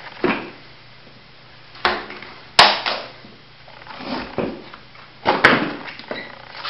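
Shop vac and dust-separator parts being handled: a series of sharp knocks and clatters, the loudest about two and a half seconds in and again about five and a half seconds in.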